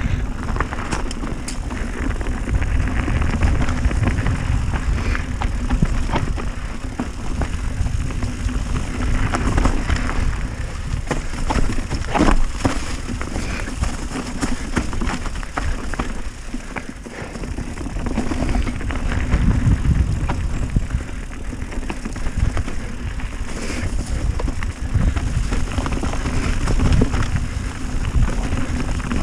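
Mountain bike riding down a dirt trail: tyres rumbling over the ground, and the bike's chain and frame rattling with many short knocks over bumps, with wind buffeting the microphone.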